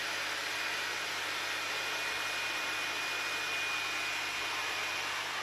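Leister Sonara S1 hot air hand tool running: the steady rushing hiss of its fan blowing hot air, with a faint high whine through it.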